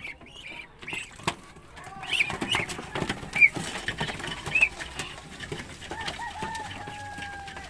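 Poultry calling: several short high chirps in the middle, then one long drawn-out call from about six seconds in, with scattered knocks among them.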